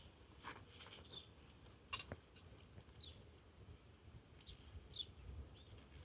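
Faint, short high bird chirps, about five spread across a few seconds, with a few light clicks early on from handling.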